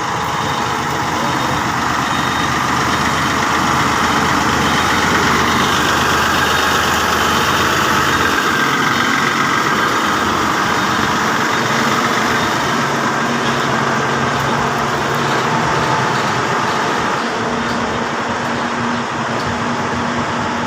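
Heavy vehicle engine running steadily; its low note shifts about eight seconds in.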